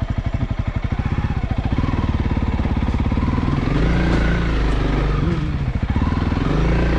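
Honda CRF300L's single-cylinder four-stroke engine idling with an even beat of firing pulses, then revved up from about two seconds in, its pitch rising and swinging as the bike pulls away in the snow.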